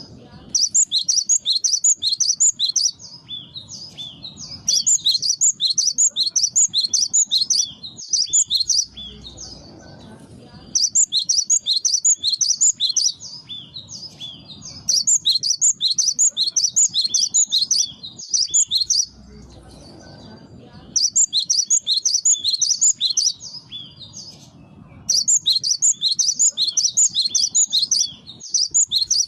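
Cinereous tit (gelatik batu) singing: six bursts of rapid, high, repeated chirping notes, each lasting two to three seconds, with short pauses between.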